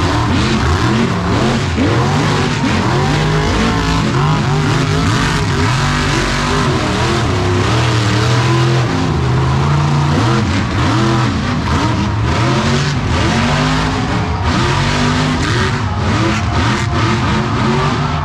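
Monster truck engine revving hard, its pitch climbing and dropping again and again without a break.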